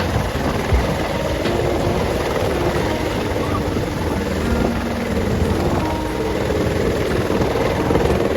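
Helicopter's engine and rotor running steadily.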